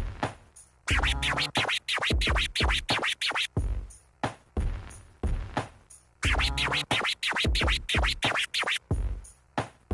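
Baby scratches on a turntable record over a sparse drum-machine beat: two spells of quick back-and-forth strokes, each about three seconds long, with only the beat playing between them.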